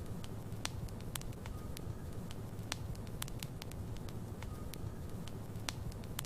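Logs burning in a fireplace: a steady low rumble of flame with irregular sharp crackles and pops, several a second.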